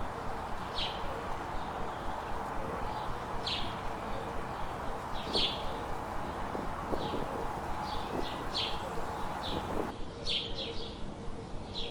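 Songbirds chirping: short, high calls repeating every second or so over a steady background hiss.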